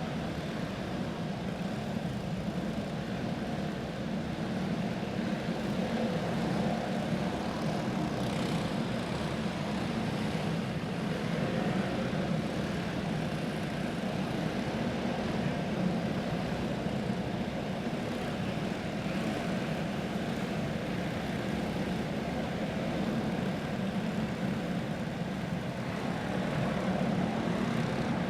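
A field of Clone-engined dirt-track racing karts lapping the track together: a steady, overlapping drone of many small single-cylinder four-stroke engines.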